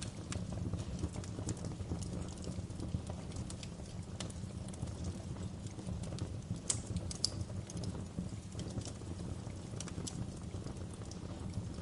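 Fire in a fireplace crackling: irregular sharp pops and snaps over a steady low rumble of the flames, with a few louder pops about seven seconds in.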